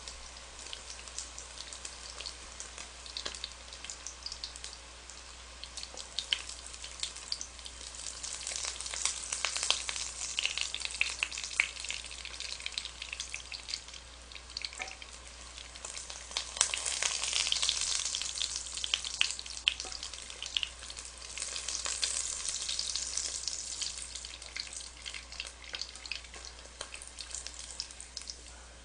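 Egg-battered mushroom slices sizzling in hot oil in a frying pan: a steady crackling hiss full of small sharp pops, swelling louder a few times.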